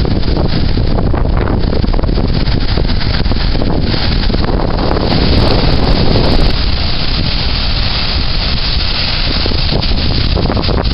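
Strong sea wind buffeting the microphone over the sound of storm surf, a steady loud rush with heavy low rumbling. The noise swells louder from about four to six and a half seconds in.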